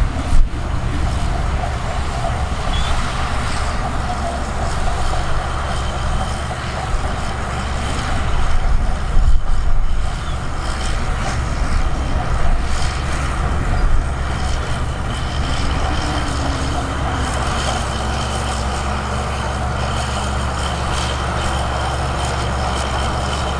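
Diesel engine of heavy earthmoving machinery running steadily, swelling louder for a couple of seconds around the middle.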